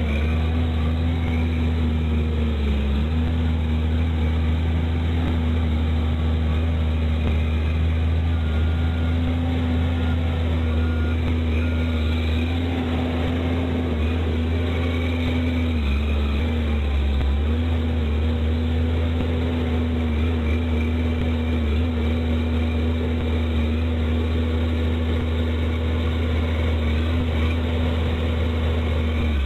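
Truck engine running steadily, a low drone that holds nearly the same pitch throughout, dipping briefly about halfway through.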